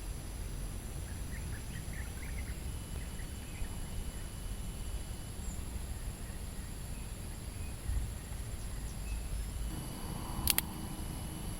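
Outdoor ambience: a steady low rumble with a faint high steady tone, a few faint chirps about two seconds in, and one sharp click near the end.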